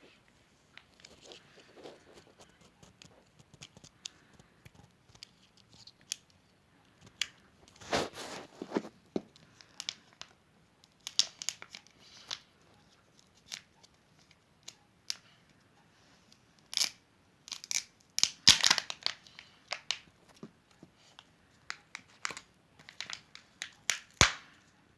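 Kinder Surprise egg wrappings being torn open and crinkled by hand: irregular crackles and tearing sounds, with louder tears about eight seconds in, around seventeen to nineteen seconds, and near the end.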